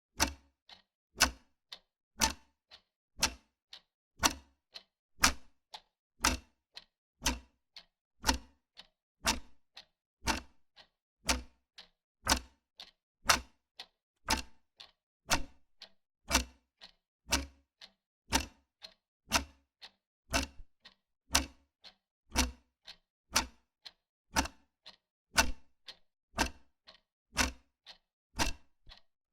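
Wall clock ticking steadily, about two ticks a second, alternating between a louder tick and a softer tock.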